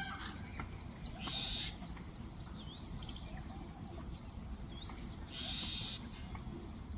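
Birds calling: a few short rising chirps and two brief hissy high-pitched calls, one about a second and a half in and one near the end, over a low background rumble.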